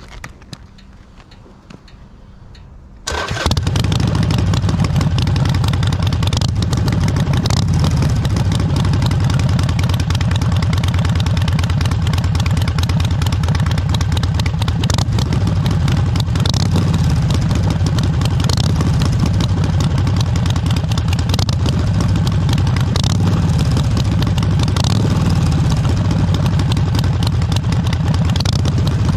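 Harley-Davidson Iron 883 V-twin engine started about three seconds in, catching at once and then idling steadily through its exhaust, loud and even.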